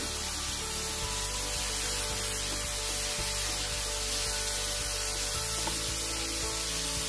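Marinated chicken strips sizzling in a hot oiled skillet with a steady hiss while they are tossed with tongs, over background music.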